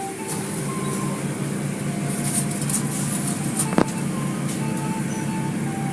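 Car wash machinery running with a steady low hum, under a simple tune of short high tones; one sharp click a little before four seconds in.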